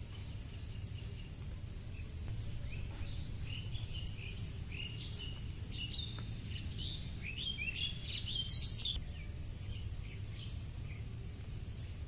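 Birds chirping, a run of short quick notes that starts about two and a half seconds in and grows busier and louder until about nine seconds. Under them a steady high insect buzz carries on, over a low steady background rumble.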